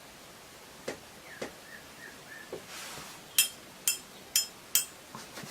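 Four quick, light taps, each with a brief high ring, about half a second apart, from a paintbrush knocked against a hard paint-pot or palette edge; a few fainter clicks of brush and handling come before them.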